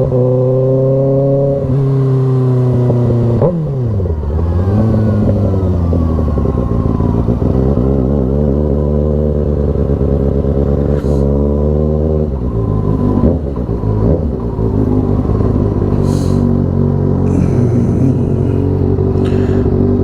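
Kawasaki ZX-6R 636 inline-four engine under way: it runs steadily, drops off about three and a half seconds in, climbs in revs for about eight seconds, drops again, then settles into steady running.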